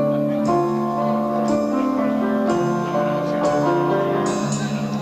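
A progressive rock band playing live, heard on an amateur tape recording. Held chords and melody notes change about once a second, each change marked by a sharp accent.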